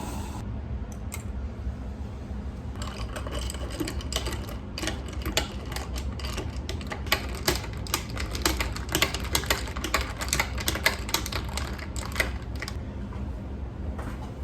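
Rapid, irregular clicking and tapping of a kitchen utensil against a dish or cutting board, starting about three seconds in and stopping shortly before the end, over a steady low hum.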